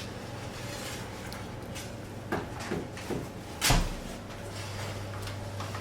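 Kitchen clatter over a steady low hum: a few short knocks, then one heavier thump about two thirds of the way through.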